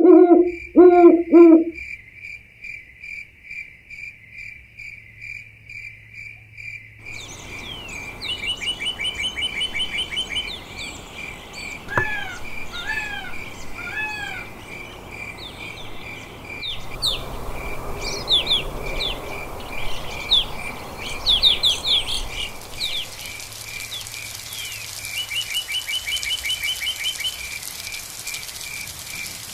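Steady, rapidly pulsed insect chirping throughout, with a few loud hoots in the first second and a half. From about seven seconds in, many bird calls join: short trills, three down-slurred whistles, and a burst of quick chirps, over a hiss that grows toward the end.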